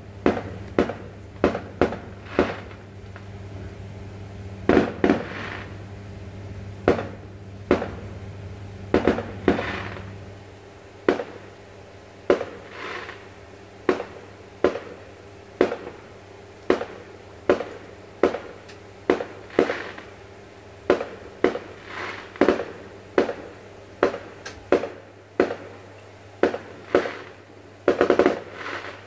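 Fireworks going off: a long run of sharp bangs, settling into about one a second, with a few longer crackling bursts among them. A steady low hum runs underneath and stops about ten seconds in.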